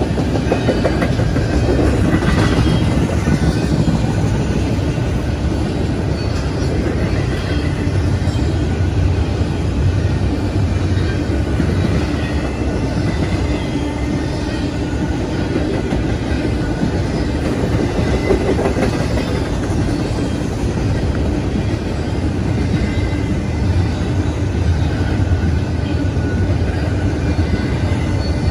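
Train rolling past at steady speed: a continuous loud rumble of railcars with wheels clicking over the rail joints.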